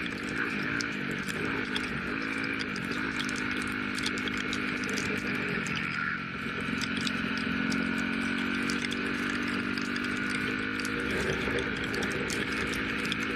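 Yamaha YZ250F dirt bike engine running, its pitch rising and falling with the throttle in the first few seconds, then holding steadier, with frequent sharp ticks over it.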